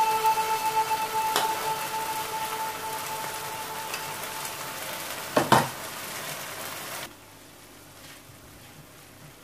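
Lentils and masala sizzling in a hot frying pan, with background music fading out over the first few seconds. A single knock comes about five and a half seconds in, and after about seven seconds the sizzle drops abruptly to a faint hiss.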